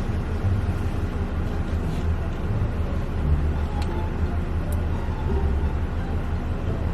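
Car engine idling, heard inside the cabin as a steady low rumble.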